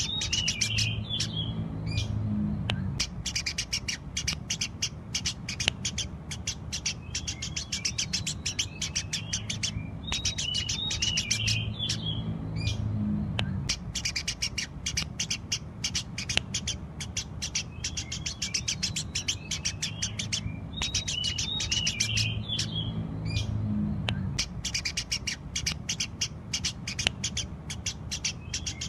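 Eurasian tree sparrows chirping busily, a dense run of short, rapid chirps with a low hum underneath. The same stretch of chirping repeats about every ten seconds, as in a looped recording.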